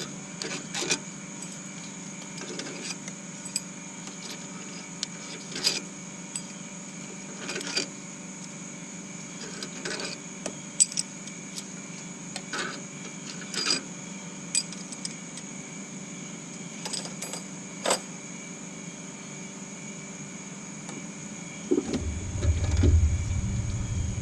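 Hand tools and sockets clinking against the engine, in scattered sharp metallic clicks, while the cylinder head bolts of a 3.5-litre V6 are worked loose. This is over a steady workshop hum, with a louder low rumble of handling near the end.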